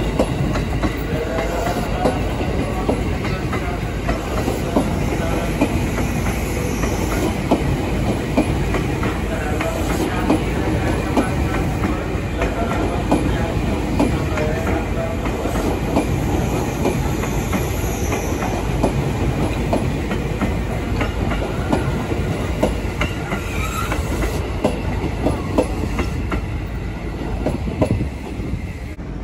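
JR 205-series electric commuter train running past, its wheels clacking rapidly over rail joints and crossing rails under a steady rumble of running noise. The sound drops off near the end as the last car clears.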